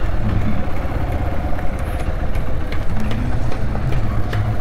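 Hero XPulse 200 single-cylinder motorcycle engine running steadily as the bike rides slowly over dirt, with scattered light clicks.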